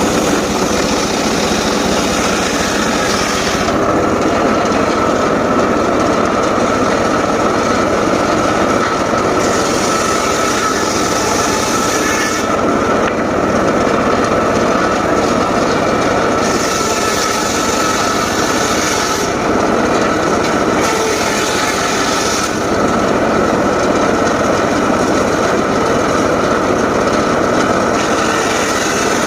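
Homemade engine-driven circular saw running steadily while cutting teak, with a constant whine. A brighter hiss comes in and drops out every few seconds as the blade works through the wood.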